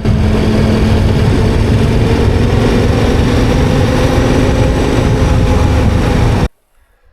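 KTM 1290 Super Adventure R's V-twin engine running as the motorcycle rides, with a steady rush of road noise, cutting off suddenly about six and a half seconds in.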